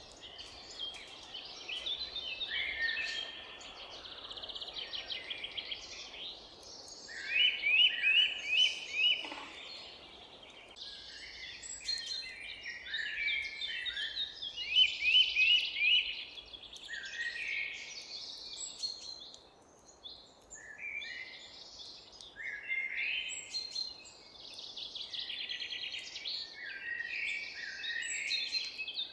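A chorus of several forest songbirds singing over one another: a continuous mix of chirps, trills and quick runs of repeated notes. A run of four sharp repeated notes about seven seconds in and a phrase around fifteen seconds in stand out as the loudest.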